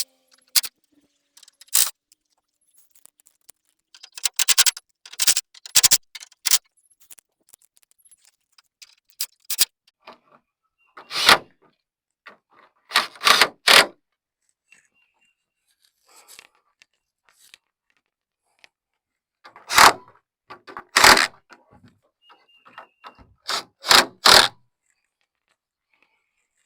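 Scattered short scrapes and knocks, in three bunches with quiet gaps between, from work shifting a fiberglass truck hood into alignment.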